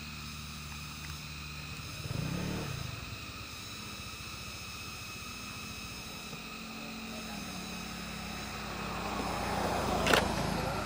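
Vehicles passing on the road: one goes by briefly about two seconds in, then another approaches and grows louder toward the end, with a single sharp click shortly before it ends.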